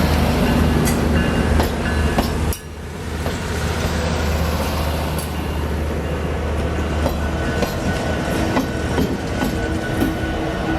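Train running on the track: a steady low drone, then after a sudden break about two and a half seconds in, rolling wheel noise with scattered clicks over the rails.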